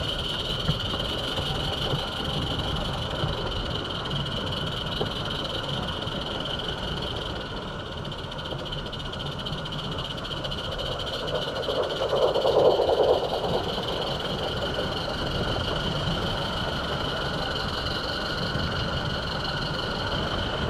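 Roundhouse Katie live-steam garden railway locomotive and train running along 45 mm track: a steady rumble of wheels on rail under a constant high-pitched whine. The sound swells louder for a couple of seconds about halfway through, then settles back.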